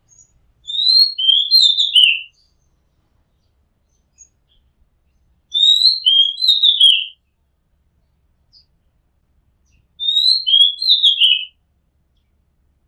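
Oriental magpie-robin singing the same short phrase of clear whistled notes three times, each phrase lasting about a second and a half with a few seconds' pause between.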